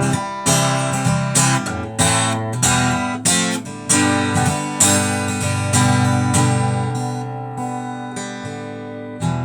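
Acoustic guitar strummed through an instrumental break, with no singing; the strokes come less often in the last few seconds, leaving the chords ringing.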